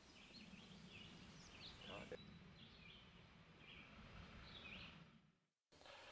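Faint outdoor ambience: small birds chirping in short, repeated calls over a low background rumble, cutting out to silence for a moment about five seconds in.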